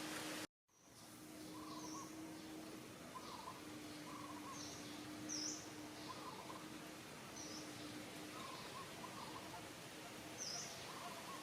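Small birds chirping now and then, short high chirps and lower short calls a second or two apart, over a steady outdoor background hiss with a faint low hum. The sound cuts out completely for a moment about half a second in.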